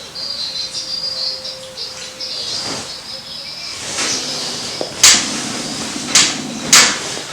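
Insects trilling high and steady, then three sharp, loud clacks in the last few seconds.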